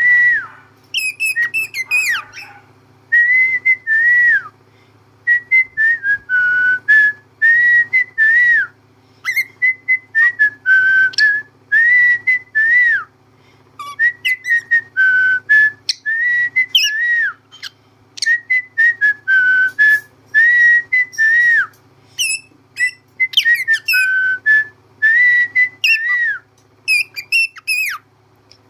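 Cockatiel whistling a tune: phrase after phrase of clear whistled notes that dip and rise, with short pauses between them and higher chirps mixed in. A faint steady low hum runs underneath.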